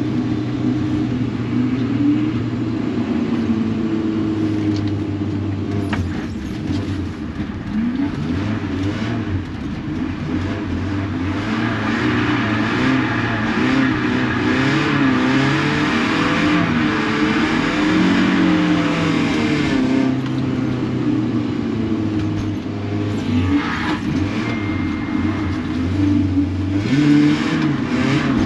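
BMW 318ti's four-cylinder engine revving up and dropping back again and again through gear changes. A rushing noise swells over it for several seconds in the middle.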